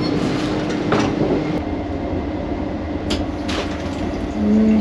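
Running noise of a moving passenger train heard inside its small toilet compartment: a steady rumble and hum, with a few sharp clicks and rattles.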